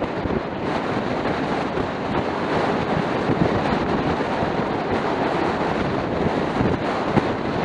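Steady wind rushing over an action camera's microphone on a scooter moving at riding speed, a continuous noisy roar with a few small knocks in it.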